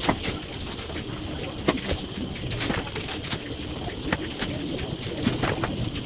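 An open fire crackling, with irregular sharp pops a few times a second, over a steady high insect drone.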